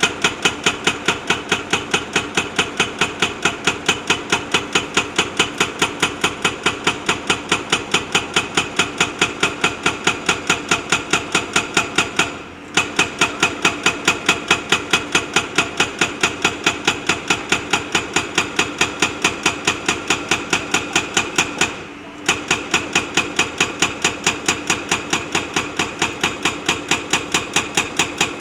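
Hydraulic rock breaker on a backhoe loader hammering stone: rapid, evenly spaced metallic blows, about four a second, with a ringing tone. The hammering stops briefly twice.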